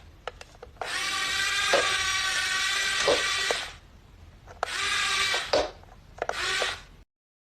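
A small power-tool motor whining in three bursts: a long run of about three seconds, then two short ones. The sound cuts off abruptly near the end.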